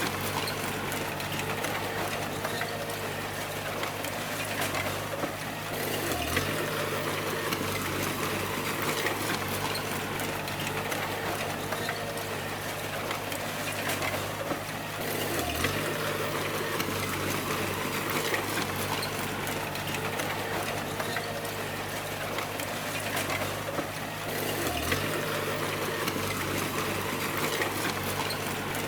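Bulldozer's diesel engine running steadily with clattering from the machine, its note dipping briefly three times, about every nine seconds.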